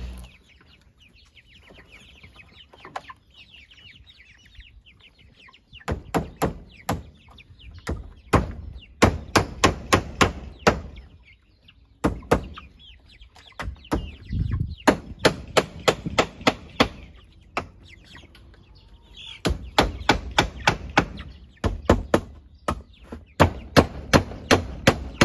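Hammer driving nails into wood in runs of quick, sharp strikes, several a second with short pauses between runs, starting about six seconds in. Chickens cluck faintly before the hammering starts.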